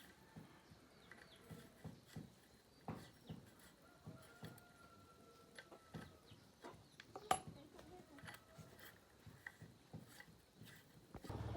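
Faint scattered clicks and light knocks with a few faint bird chirps. Just before the end a steady low hum starts abruptly.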